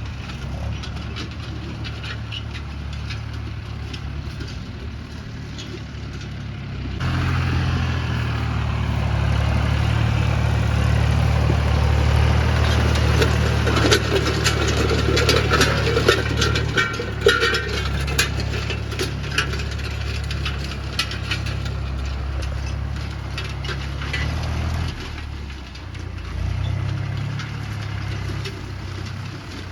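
Mahindra 265 DI tractor's three-cylinder diesel engine running, picking up to a louder, harder-working note about seven seconds in and easing back near the end. Many sharp knocks and rattles sound over it during the louder stretch.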